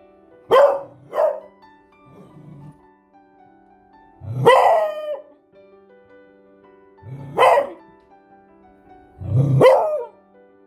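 Beagle barking: two quick barks, a faint low one, then three longer barks a few seconds apart, over soft piano music.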